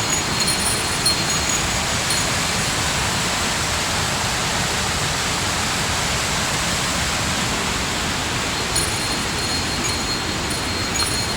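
Water rushing steadily in a waterfall or mountain stream, an even roar with no breaks.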